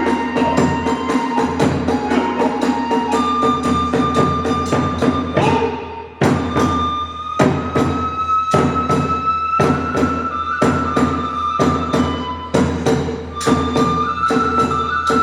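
Hiroshima kagura festival music (hayashi): rapid beats on drums and hand cymbals under a sustained bamboo-flute melody. About six seconds in the music briefly drops, then the flute rises to a higher held note.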